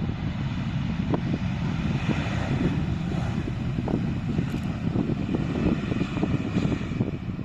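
Wind buffeting the microphone in gusts, with a faint jet airliner engine noise swelling and fading in the middle.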